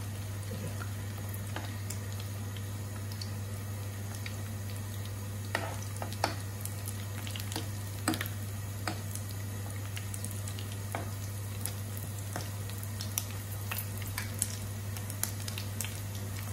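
Rice-and-egg kebab patties frying in shallow hot oil in a nonstick pan: a steady soft sizzle with scattered sharp clicks and pops as a metal spoon presses and shapes a patty against the pan. A steady low hum runs underneath.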